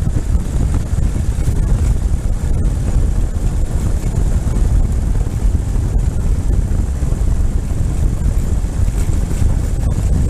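Motorcycle under way: a steady low rumble of wind buffeting the microphone, with the engine's drone underneath.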